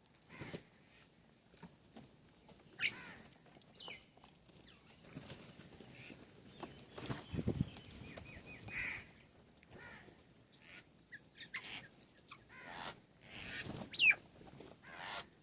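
Birds at a feeder: scattered short chirps and calls, one sweeping down in pitch near the end, mixed with small knocks and rustles.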